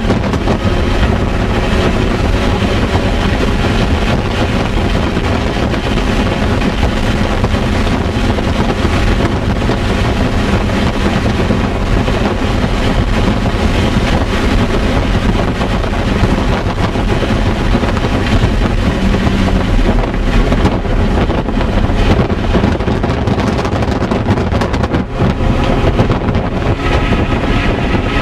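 2005 MINI Cooper S's supercharged 1.6-litre four-cylinder engine running hard at lapping speed, heard loud and steady from inside the cabin along with tyre and wind noise.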